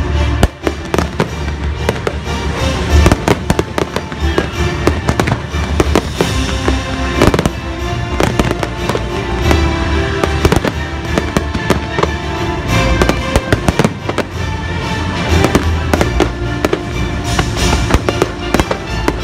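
Fireworks bursting in many rapid, irregular bangs and crackles, over the show's music playing loudly.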